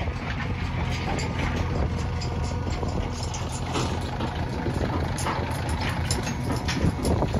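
Diesel engine of a JCB backhoe loader running steadily, with scattered short knocks and clatter over it.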